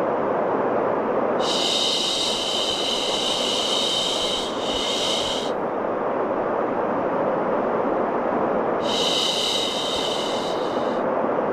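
Steady rushing white noise for soothing a baby, with repeated long "shhh" shushing sounds over it: two back to back a little over a second in, and another near the end.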